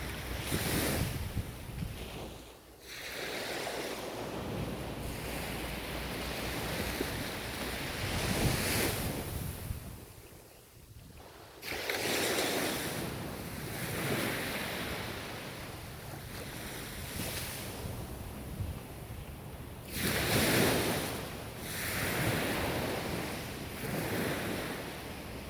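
Ocean surf washing onto the shore in repeated surges of hiss, each one swelling and fading over a few seconds. There is a deep lull about ten seconds in, and the strongest surge comes near the end.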